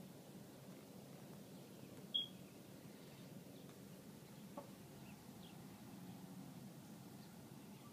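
A few short, high bird chirps over faint outdoor background noise: one sharp chirp about two seconds in, then fainter falling chirps later.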